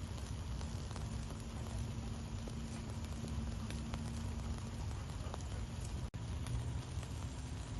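Wood fire burning in a fireplace: a steady low rumble of flames with scattered small crackles and pops. There is a split-second gap in the sound about six seconds in.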